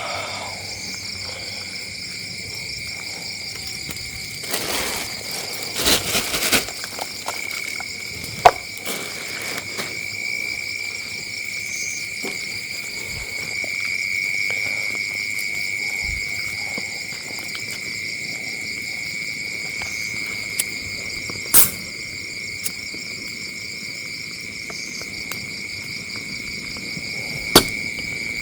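Crickets chirring steadily, in two high pitched layers. Over them come a short rustling stretch a few seconds in and three sharp cracks or knocks, the loudest about eight seconds in.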